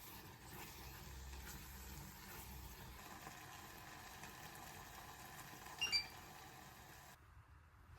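Quiet kitchen sounds: a faint steady background that may be a pot simmering, with a short bright clink about six seconds in. Just after seven seconds the background drops away abruptly.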